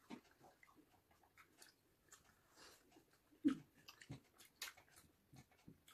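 Faint chewing and mouth sounds of people eating roti and curry with their hands, with scattered small clicks and smacks. One short louder sound about three and a half seconds in.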